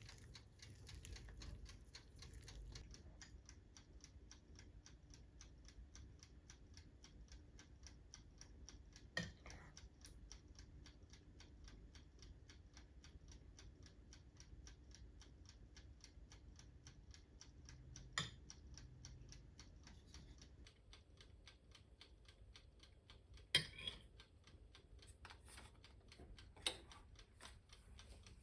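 Faint, steady ticking, several even ticks a second, with a few louder single clicks or knocks scattered through it.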